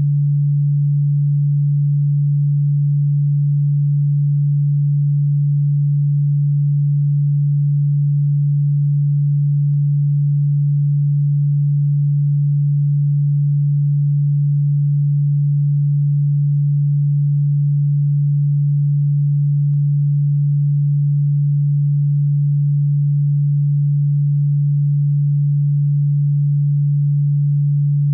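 Electronically generated sine tone played as a bug-repellent sound: one steady, unchanging low pitch with no breaks.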